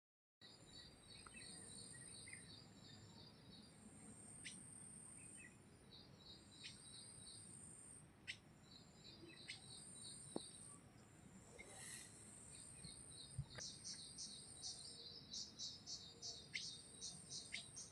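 Faint chorus of insects and small birds: a steady high insect whine under runs of rapid high-pitched chirps, with occasional single sharp chirps. The chirping grows busier in the last few seconds.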